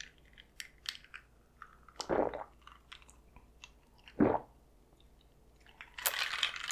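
Close-miked mouth sounds of someone drinking strawberry lemonade: two loud swallows about two seconds apart, with small wet mouth clicks between them, then a breathy hiss near the end.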